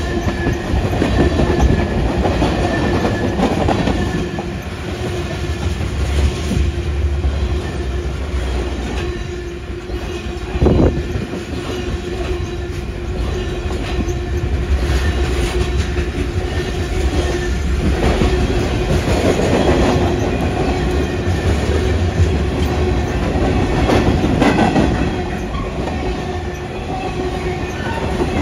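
Freight train cars rolling past, the wheels clacking over the rail joints. A faint steady wheel whine runs under it, and a single sharp knock comes about eleven seconds in.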